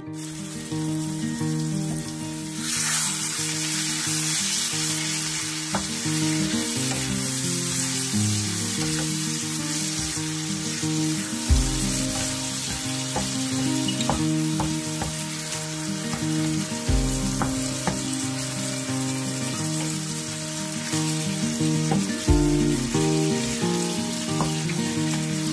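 Liver and onions sizzling in a hot frying pan while being stirred with a wooden spatula, the sizzle growing louder about three seconds in, with a few knocks of the spatula against the pan. Background music plays underneath.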